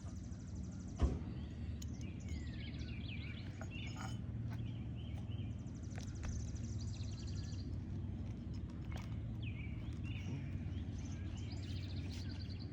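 Small birds chirping and trilling throughout over a steady low outdoor rumble, with a single sharp knock about a second in.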